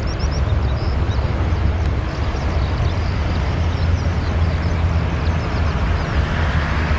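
Jet airliner engines running with a steady low rumble and hiss, the hiss growing stronger near the end.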